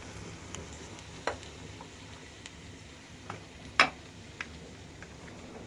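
Cooking utensils clinking against a pot while spices are stirred into macaroni: a few separate sharp taps, the loudest about four seconds in, over a low steady rumble.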